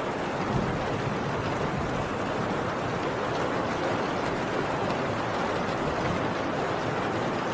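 Heavy rain drumming steadily on a tin roof, an even downpour.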